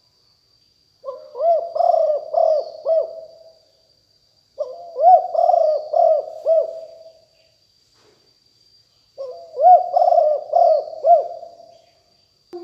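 Spotted dove cooing: three phrases of several rolling, arching coos, a few seconds apart, over a faint steady high-pitched whine.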